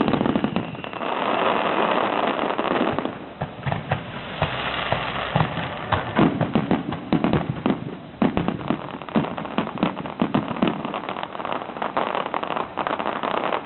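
Fireworks going off in a dense run: a continuous crackle for the first few seconds, then many sharp pops and bangs in quick succession.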